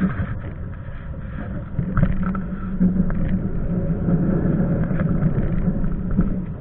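Passenger train running: a steady rumble with a constant low hum, and a few short knocks along the way.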